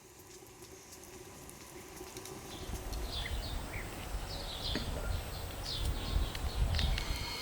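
Small birds chirping in short calls, starting a couple of seconds in, over a low rumble that swells near the end.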